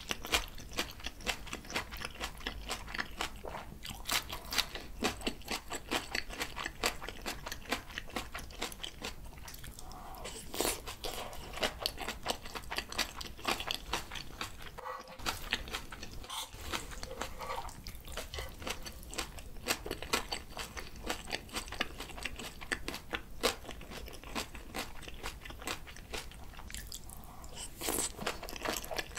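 Close-miked chewing of bibimbap mixed with raw julienned radish salad and spring cabbage geotjeori: a constant run of small wet crunches and mouth sounds.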